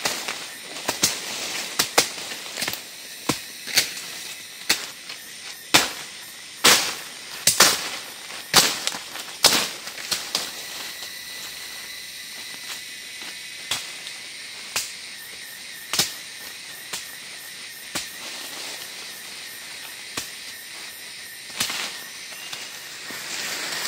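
Irregular sharp cracks and knocks, close together for the first ten seconds or so and then sparser, over a steady high drone of forest insects.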